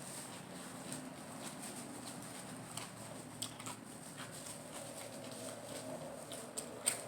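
Close-miked chewing of a lettuce-wrapped salad roll: wet crunching and small mouth clicks, with one sharper crunch near the end.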